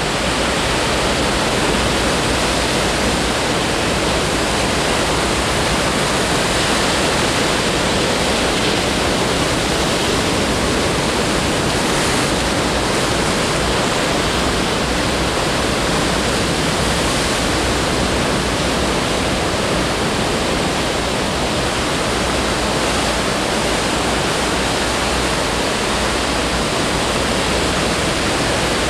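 Steady noise of ocean surf breaking, an even unbroken wash.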